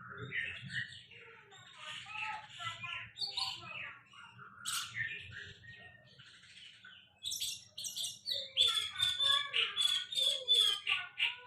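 Songbird singing a varied run of chirps and whistled phrases, ending in a fast series of repeated notes over a held high whistle.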